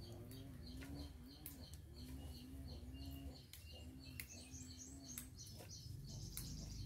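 Birds chirping in quick, repeated short high notes, with a few scattered clicks and a steady low rumble underneath.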